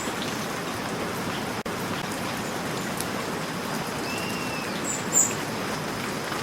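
Steady rain falling, an even hiss of drops. A few short, high bird chirps sound over it about four to five seconds in, the last one the loudest.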